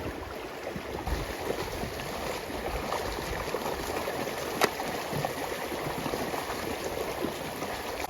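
Steady outdoor rushing noise, with one sharp click about halfway through.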